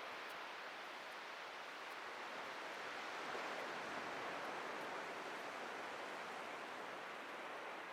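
Atlantic surf washing onto a beach: a steady rush of breaking waves that swells a little about halfway through and then eases off.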